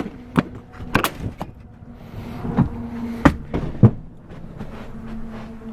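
Motorhome entry door and steps: a string of sharp knocks and thumps, about nine in the first four seconds, as someone opens the door and climbs inside, over a faint steady hum.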